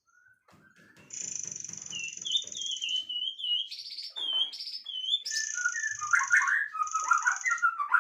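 Songbirds singing. High buzzy trills start and stop, and a run of short wavy whistled notes comes in the middle. Fast, lower warbling fills the second half.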